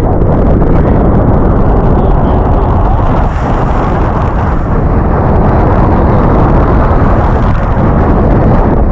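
Heavy wind buffeting the camera microphone during a paragliding flight: a loud, steady rumbling rush, with no engine tone in it.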